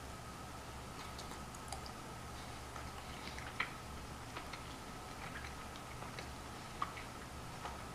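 Faint, scattered mouth clicks of slow, quiet chewing, one a little louder about three and a half seconds in, over a steady electrical hum.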